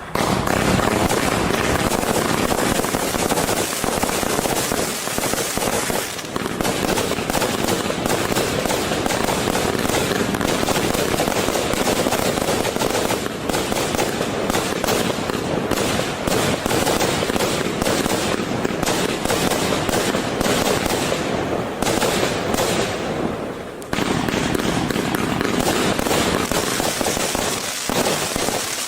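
Brother Pyrotechnics 'Infamous' 210-shot compound firework cake with 30 mm tubes, firing: a dense, continuous barrage of loud shots and aerial bursts with crackling, and a brief lull about three quarters of the way through.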